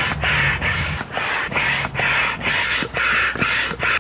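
Double-action hand air pump inflating an air mattress: a quick, even run of rushing whooshes of air, about two or three a second, one on each push and each pull stroke.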